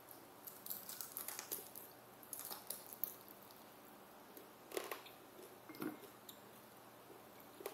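Close-miked chewing and biting of crisp fried food with the mouth: crackly crunching in two clusters over the first three seconds, then a few single crunches later on.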